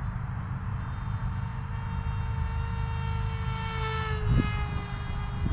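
Brushless electric motor and 5x3 propeller of a ZOHD Dart RC plane (AtomRC 2004 2400kv) whining steadily in flight. The pitch falls about four seconds in. A steady low rumble sits underneath.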